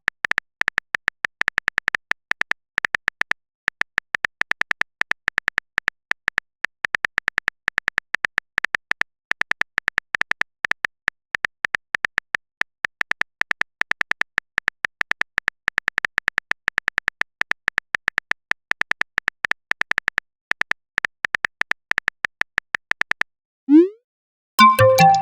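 Phone keyboard typing sound effect: a fast, irregular run of short beeping clicks that stops about 23 seconds in. A quick rising pop and then a short chime follow near the end, like a message being sent and arriving.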